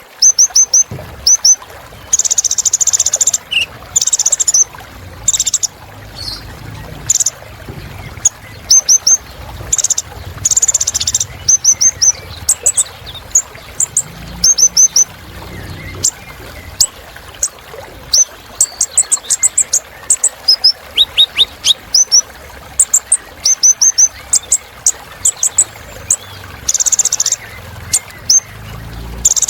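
Van Hasselt's sunbird (the 'kolibri ninja') singing a fast, high-pitched song: quick runs of thin, sharply dropping chirps broken by short buzzy trills, repeated throughout.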